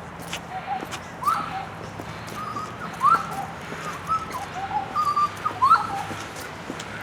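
A bird singing a run of short clear whistled notes, some sweeping quickly upward; the loudest come about one, three and six seconds in.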